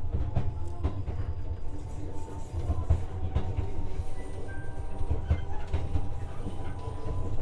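JR West 125-series electric railcar running along the track, heard from inside the passenger cabin: a steady low rumble with frequent clicks and knocks from the wheels over the rails.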